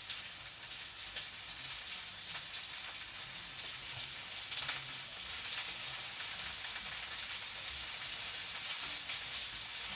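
Food frying in a pan: a steady sizzle with scattered small crackles and pops, over a faint low hum.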